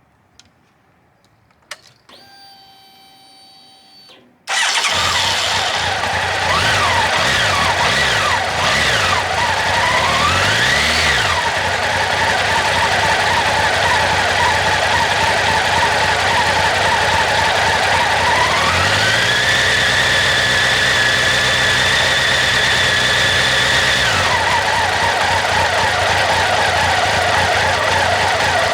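Honda CB1100SF X11's inline-four motorcycle engine. After a few clicks and a brief steady whine it starts about four seconds in, then idles and is revved twice, the second time held higher for several seconds. A steady high-pitched squeal sits over the engine note: the water pump is failing.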